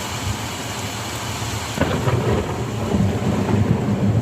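Steady heavy rain, then about two seconds in a sudden crack of thunder from a lightning strike about 700 m away, running on into a heavy low rumble.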